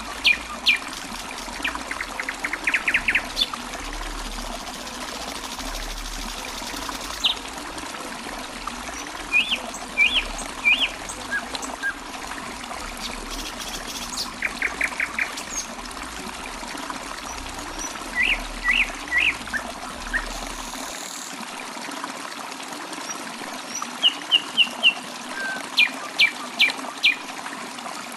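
Small birds chirping and trilling in short repeated phrases over a steady trickle of running water.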